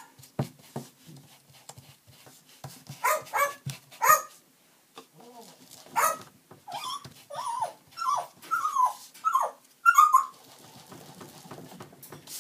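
A pet bird mimicking a dog's bark: a few short calls, then a quick run of about six short falling barks in the middle part.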